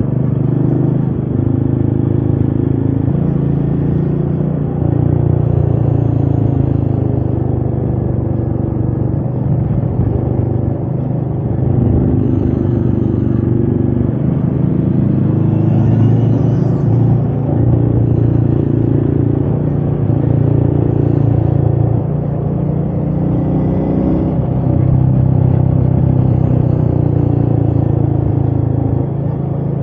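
Royal Enfield Meteor 350's single-cylinder engine running steadily under way, its engine speed rising and falling several times as the rider works the throttle.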